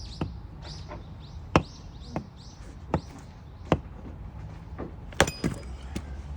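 A hatchet chopping firewood: a series of sharp, single wooden strikes, about eight in all and unevenly spaced, with two close together about five seconds in.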